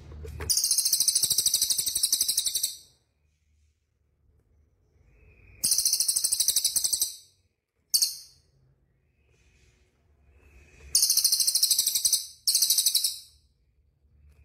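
A songbird singing in repeated bursts of very fast, high-pitched trills, each about one to two seconds long, with short pauses between them and a brief chip about eight seconds in.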